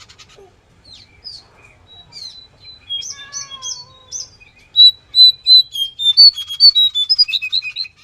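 Jongkangan songbird singing: a few scattered chirps, then from about five seconds in a loud run of clear whistled notes that comes faster and more twittering toward the end.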